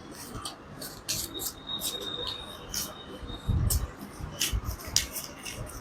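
Sheet of paper rustling and crinkling in quick, irregular strokes as it is rolled up by hand, with a few dull handling bumps about halfway through.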